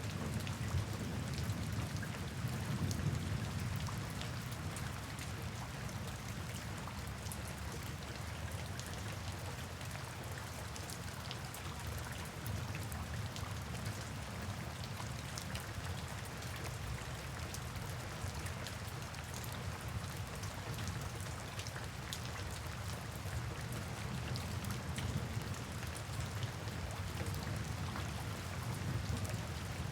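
Steady rain with many small drop ticks, blended with brown noise that forms a deep, even rumble under it.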